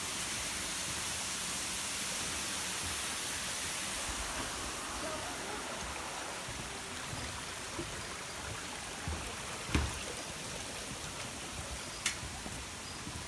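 Steady rush of water from a mountain stream and waterfall, a bright hiss that eases a little after about four seconds. Two sharp knocks come near the end.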